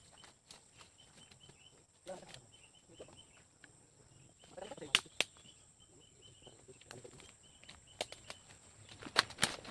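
Footsteps and rustling in undergrowth, with irregular knocks and clicks. Series of short, high chirps repeat in the background.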